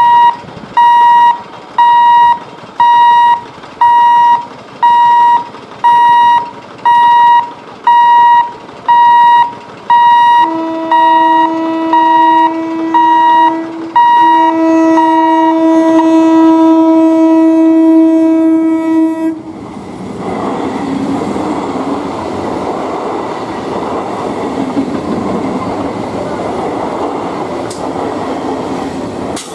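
Electronic beeping about once a second. Over it an EMU local train's electric horn sounds two long blasts, the second one longer, as the train approaches. The horn and beeps cut off suddenly, giving way to the loud, steady rumble and rattle of the train's wheels and coaches passing.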